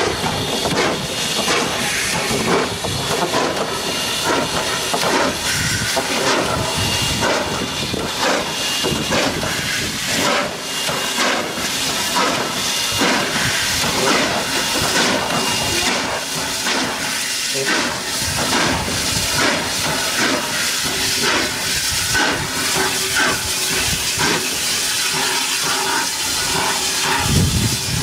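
Loud, steady hissing noise with dense, irregular clattering running through it.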